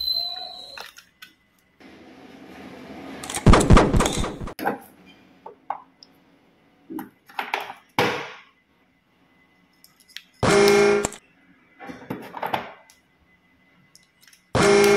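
A rising whoosh building into a loud crash, then scattered short clicks and clatters, and two short buzzy horn-like tones near the middle and at the end.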